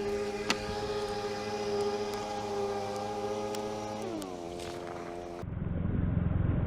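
Outdoor warning siren sounding a steady multi-tone wail, then winding down in pitch about four seconds in, with scattered light clicks. Near the end a rushing noise of wind and rain rises.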